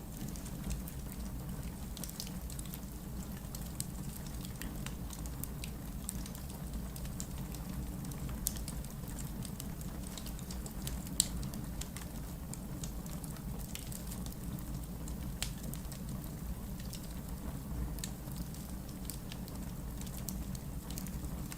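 Wood fire in a fireplace burning with a steady low rumble and scattered sharp crackles and pops, the loudest pop about eleven seconds in.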